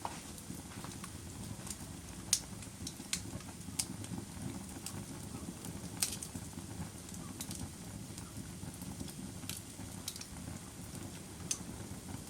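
Wood fire crackling: irregular sharp pops and snaps over a steady low rustle of burning, with the loudest pops about two and six seconds in.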